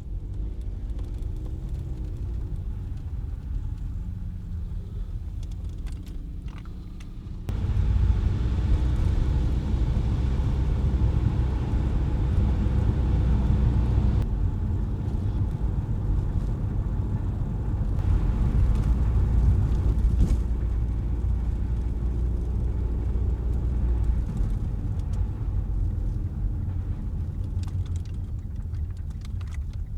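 Car driving on wet, slushy city streets: a steady low rumble of engine and road noise. It suddenly gets louder and hissier about seven and a half seconds in.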